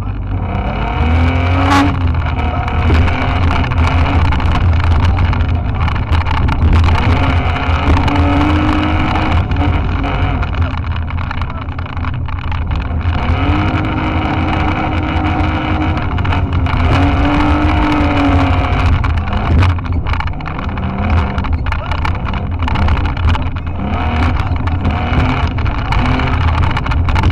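Off-road car's engine heard from inside its roll-caged cabin, revving up and down repeatedly as it is driven, with frequent knocks and rattles throughout.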